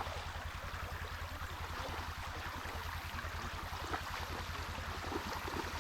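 Creek water running steadily, an even rushing babble.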